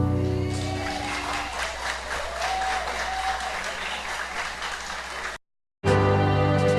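A live music performance ends with its last notes dying away, followed by audience applause with a few voices. After a brief cut to dead silence, music starts again.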